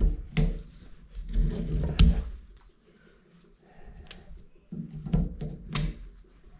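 Hand work on shower valve parts: several sharp clicks and knocks with scraping and rubbing handling noise, and a quieter lull in the middle.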